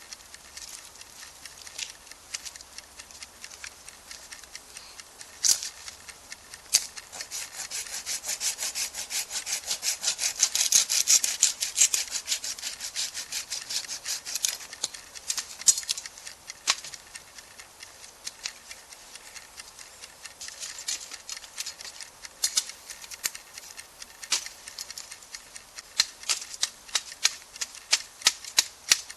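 Wood being cut with a hand saw: a long run of quick, rasping strokes in the middle, with scattered knocks and clicks around it. Near the end, a run of sharp, evenly spaced ticks, about two to three a second.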